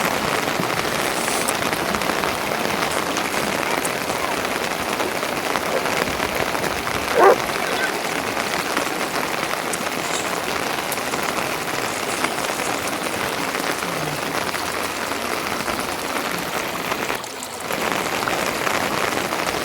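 Steady rain falling, an even hiss. About seven seconds in comes one short high sound, the loudest moment. The rain briefly drops away around seventeen seconds.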